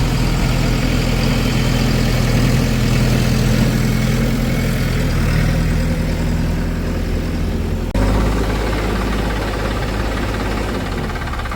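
Heavy diesel engine running steadily. Its tone changes abruptly about eight seconds in.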